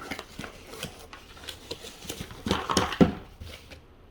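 A cardboard box and its packaging being handled and opened by hand: a string of light taps and knocks, then a louder stretch of rustling about two and a half seconds in that ends in a sharp knock.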